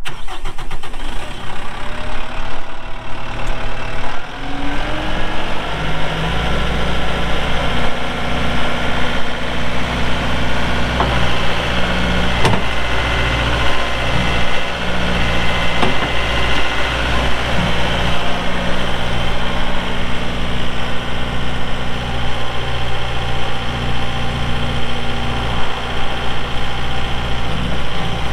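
Kubota M7060 tractor's four-cylinder diesel engine running steadily at idle, with a few sharp clicks partway through.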